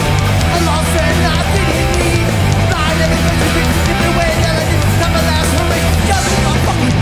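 New York hardcore punk band playing a song live at full volume: distorted electric guitars, bass and pounding drums driving a fast, repeating riff.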